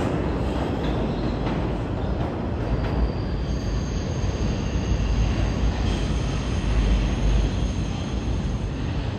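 New York City subway train running at the station, a steady rumble of wheels on the rails with hiss above it; a faint high whine comes in about three seconds in.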